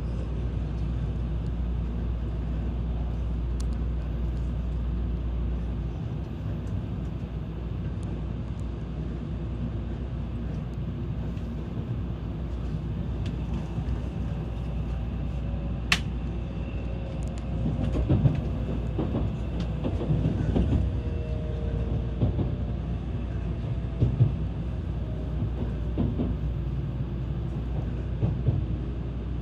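Tokaido Shinkansen train running at speed: a steady rumble of wheels on rail and rushing air. The deepest rumble eases about six seconds in, and the second half brings scattered knocks and a sharp click.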